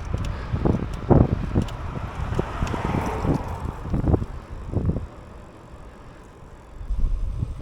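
Wind buffeting the microphone of a moving bicycle in uneven gusts, easing after about five seconds, with one more gust near the end.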